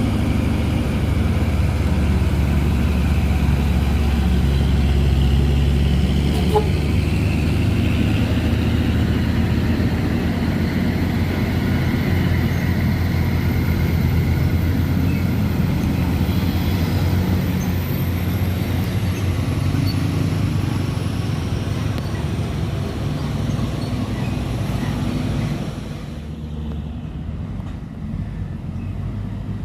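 Heavy truck engines running at a low, steady drone as traffic climbs a steep hill. The sound drops noticeably quieter about 26 seconds in.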